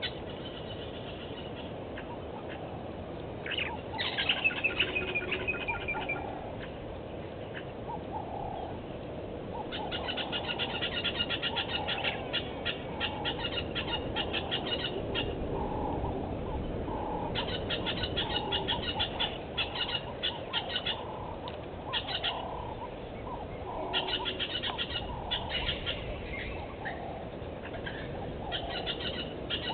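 Wild birds calling: several bursts of rapid, high trilling notes from about ten seconds on, a short falling call about four seconds in, and scattered short lower notes in between, over a steady outdoor hiss.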